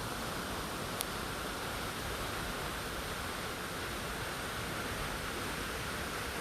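Steady rush of a waterfall, an even hiss with no change, with one short click about a second in.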